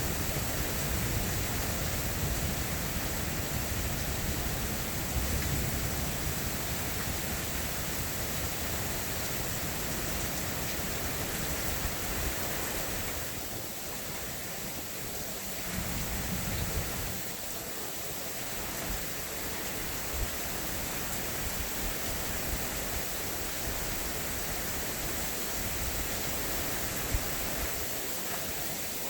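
Steady heavy rain pouring down, with a low rumble through roughly the first half that dies away and returns briefly a little past the middle.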